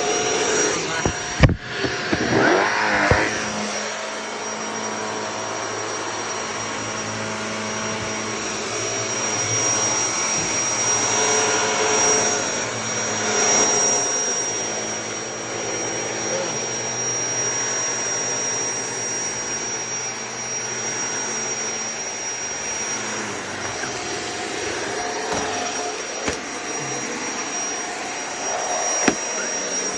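Shark vacuum cleaner running steadily, with a high, even whine over its motor and airflow noise. About a second and a half in there is a sharp click, and the pitch wavers for a moment before settling.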